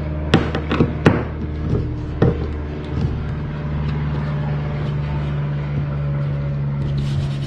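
A few sharp knocks and clicks of kayak seat and hatch hardware being fitted by hand, bunched in the first couple of seconds with the loudest about a second in, over a steady low hum.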